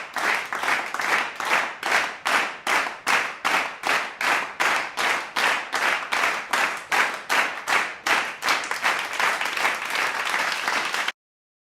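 Hands clapping in a steady rhythm, about three claps a second, loosening into less even applause near the end and cutting off abruptly.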